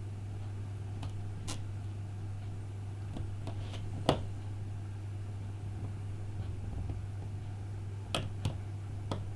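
Scattered small sharp clicks and taps of precision tools and tiny screws on iPhone 5 internals, the loudest a bit after four seconds in, over a steady low hum.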